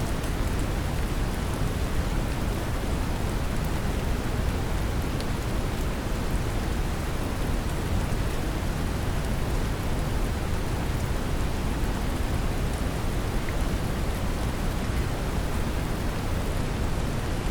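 Brown noise mixed with steady rain: a deep, even rushing hiss with the patter of rain over it, unchanging throughout.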